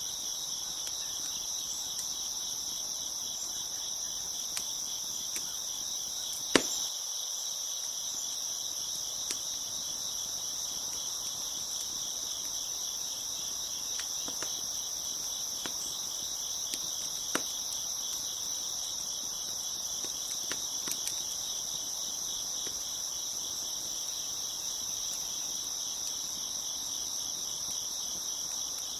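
A chorus of crickets chirping steadily, with sparse pops and snaps from a crackling wood fire, the loudest pop about six and a half seconds in.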